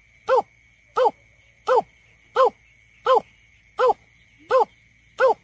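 Greater painted-snipe calling: a steady series of short, low hoots, eight of them about 0.7 s apart, each rising and falling slightly in pitch. This is the repeated hooting used as a lure call for bird surveys.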